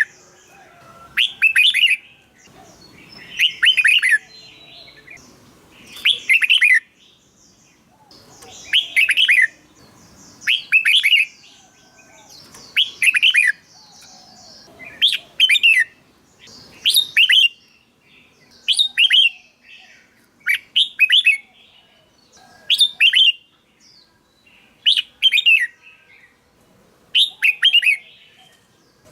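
Red-whiskered bulbul singing: short, loud phrases of a few quick whistled notes, repeated about every two seconds.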